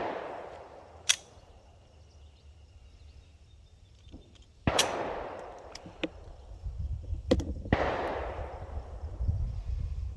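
A prototype pistol fires two shots about three seconds apart, each sharp report trailing off in a long echo, while the echo of an earlier shot dies away at the start. There is a single sharp click about a second in and a low rumble near the end.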